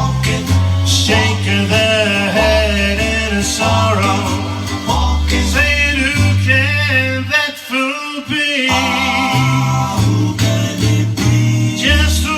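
A song with a country-style backing of bass and guitar, and a male voice carrying the melody over it.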